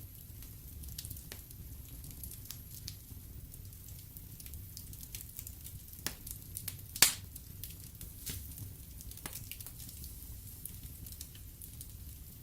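Wood fire in a fireplace crackling with scattered sharp pops, one much louder pop about seven seconds in, over a low steady rumble.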